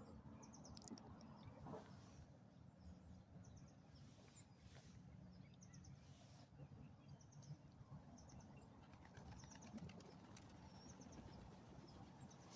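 Faint, high chirps from small birds, short clusters repeating every second or two over a quiet background.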